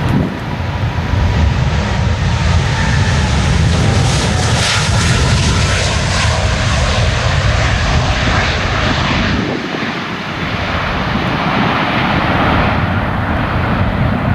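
Jet airliner departing at takeoff thrust: a loud, continuous engine rumble and roar, its high hiss strongest about four to six seconds in and then fading as the aircraft moves away.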